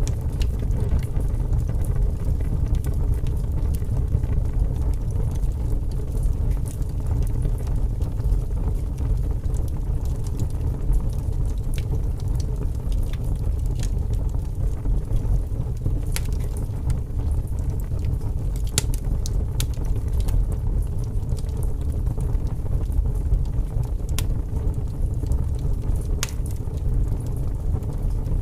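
Wood fire burning in a fireplace: a steady low rumble of flames with a few sharp crackles and pops from the logs, mostly in the second half.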